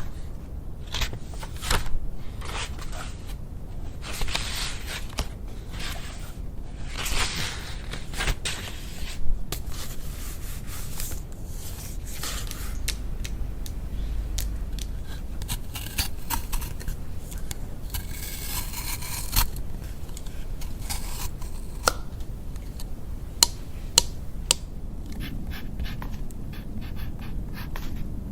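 Close-miked ASMR trigger sounds: scraping and rustling with many sharp clicks and taps scattered through.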